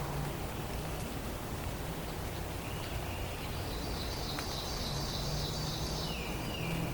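Songbirds calling and trilling in a forest, starting about two and a half seconds in and running on, over a steady background hiss.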